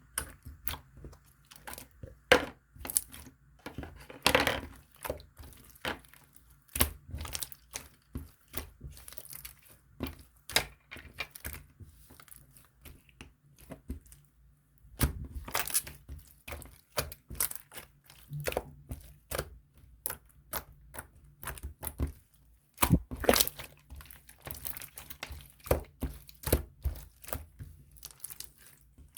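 Close-miked crackling, crinkling and tapping: an irregular run of sharp clicks and short crinkles, with brief pauses.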